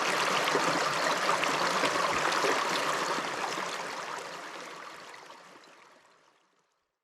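River water rushing over rocks in a steady flow, fading out over the last few seconds to silence.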